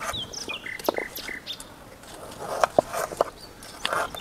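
Birds chirping in short gliding calls during the first second or so, followed by a few short, sharp clicks later on.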